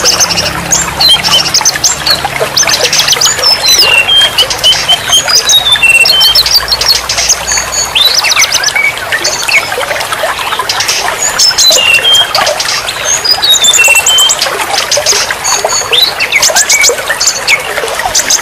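Songbirds singing in quick chirps, trills and short whistled notes over a steady trickle of running water.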